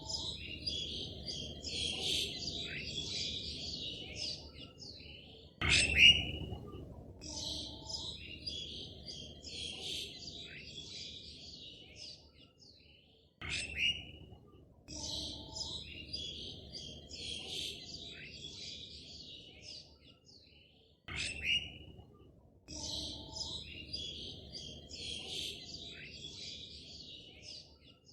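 Birds chirping and twittering over a low background hiss, in a recording that repeats about every seven to eight seconds, each pass opening with one louder, sharper call.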